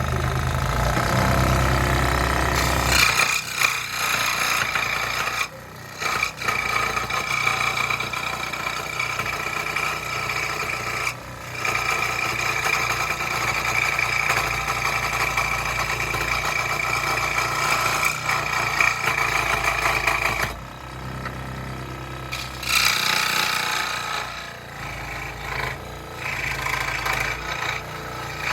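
Scroll saw running and cutting through a wooden board: a steady buzzing rasp from the reciprocating blade, easing off briefly a few times as the cut pauses.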